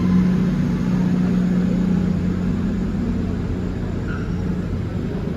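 Great Western Railway Class 800 train standing at the platform, running with a steady low hum.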